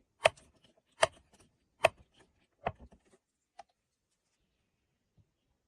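A hand tool striking wood in a series of sharp knocks a little under a second apart, four in all, the last weaker, followed by a small click about a second later.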